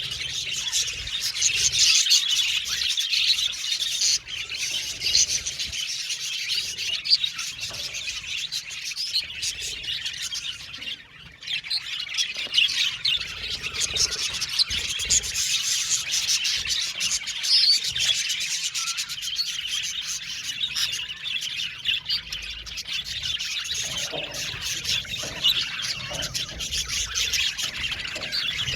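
A flock of budgerigars chirping and chattering together in a dense, continuous stream of short, high twittering calls, with a brief lull about eleven seconds in.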